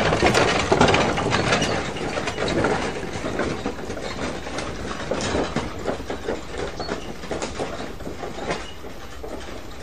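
Bullock cart rolling away: a dense, rapid clattering rattle of the cart that fades gradually.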